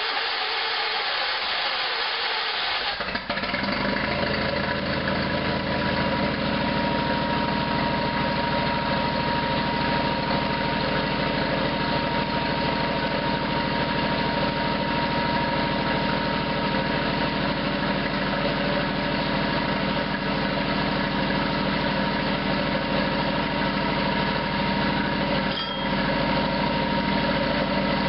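SS/16 garden tractor engine catching about three seconds in, then running steadily, with one brief dip in level near the end.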